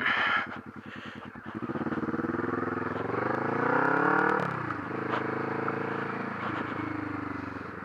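Exhaust of a Kawasaki Vulcan S's parallel-twin engine through a Delkevic 8-inch mini slip-on with the baffle in, heard while riding. The engine pitch rises under acceleration, drops sharply at an upshift about halfway through, then holds steady and eases off toward the end.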